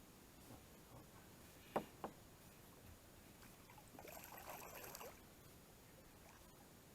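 Quiet small-boat sounds on a lake: two sharp knocks against the boat just before two seconds in, then about a second of trickling, splashing water about four seconds in.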